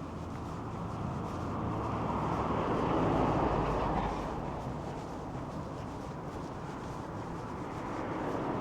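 A vehicle passing on a city street, its noise swelling to a peak about three seconds in and fading away, with another starting to approach near the end over a steady low hum.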